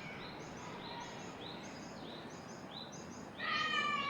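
Steady wind noise with a small bird chirping over it, short high notes repeated about twice a second. Near the end a louder, higher-pitched cry rises over everything and slides down in pitch as it ends.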